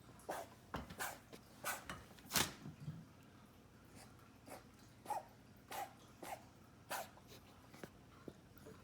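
Dog coughing in a run of short, sharp hacking coughs, several close together in the first three seconds, then another string of coughs after a pause of about a second and a half.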